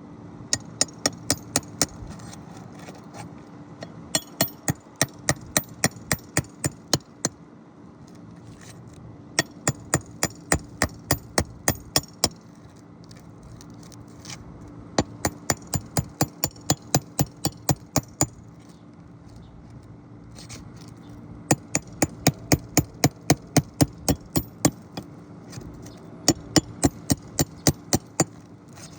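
Hammer blows in six quick runs of about three sharp, ringing strikes a second, metal on metal, working roofing shingles and their nails loose for a shingle repair.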